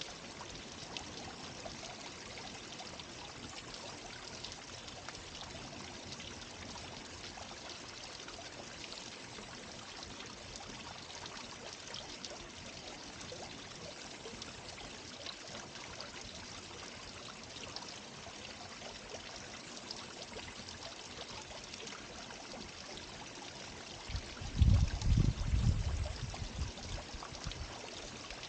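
Garden water fountain running steadily, its water splashing and trickling. Near the end a loud low rumble lasts about two seconds.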